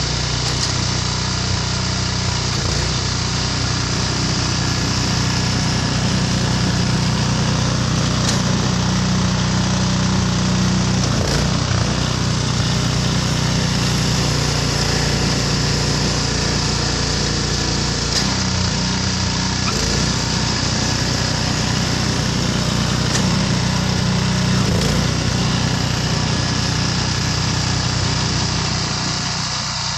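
Snowblower's small gasoline engine running steadily, with a few sharp knocks along the way.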